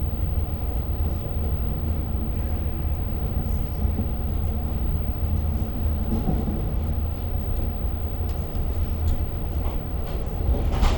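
Long Island Rail Road passenger train heard from inside the car: a steady low rumble of the train running along the rails.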